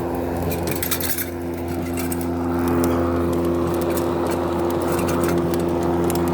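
Battery-powered electric lawn mower running at a steady pitch while cutting grass, a constant motor and blade hum with scattered light ticks.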